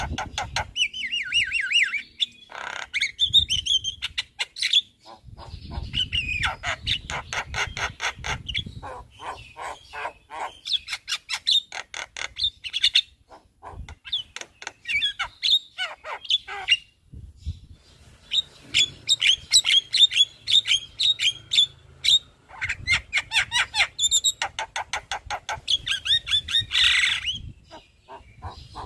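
Javan myna (jalak kebo) in full song: a long, varied string of rapid harsh chattering notes, clicks and short whistles, in phrases broken by brief pauses.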